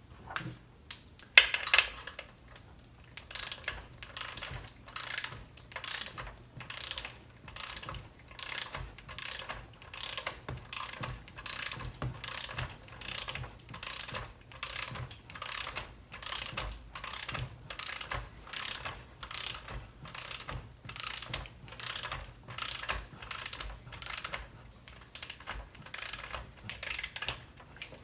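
Ratchet torque wrench being worked back and forth in steady strokes, its pawl clicking about one and a half times a second, as a new bar stud is run down toward its 17 foot-pound torque. There is one sharp click about a second in.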